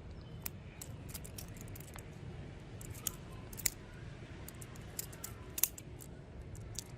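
Handmade butterfly knife being handled and flipped: light metal clicks and clinks at uneven intervals as the handles swing and snap against the blade, the sharpest about a third and four fifths of the way through, over a steady low hum.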